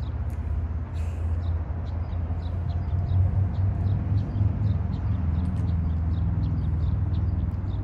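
Small birds chirping over and over, short high chirps a few times a second, over a steady low outdoor rumble.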